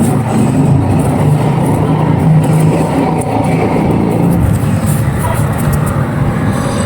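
Dry, dusty clay crumbling and crushing in a dense, continuous crunch, with scattered fine crisp crackles.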